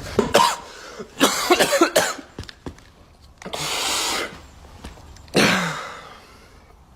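A person coughing in several rough, throaty bursts, the longer ones breathy, with short pauses between them.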